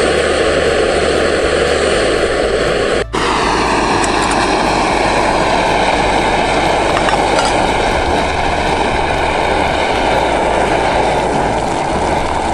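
Portable camp stove burner running steadily with a continuous loud hiss, heating water for coffee. There is a short break about three seconds in.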